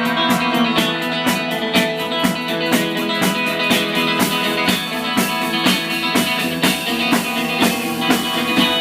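Live band playing a song's instrumental intro, led by strummed guitar in a steady rhythm.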